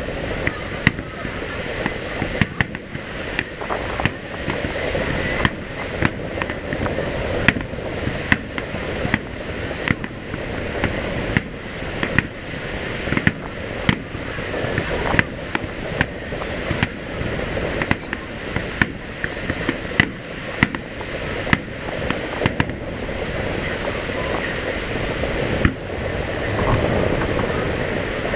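Fireworks display: shells bursting with sharp bangs in quick irregular succession, about one to two a second, over a steady background noise. The bangs thin out in the last few seconds, with one strong bang near the end.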